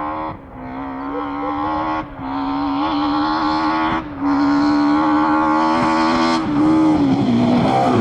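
BMW M3 E30 Group A rally car's four-cylinder engine accelerating hard. It makes three quick upshifts, each heard as a brief dip in sound before the revs climb again. Near the end the revs fall away as it slows.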